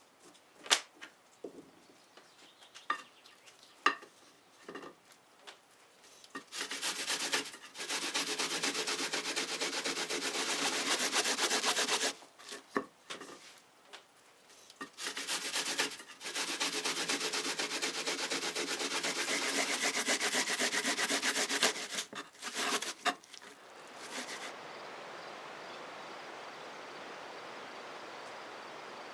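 Raw potatoes grated by hand on a grater: two long runs of quick, rasping strokes, after a few light knocks of handling. Near the end, a steady, even hiss.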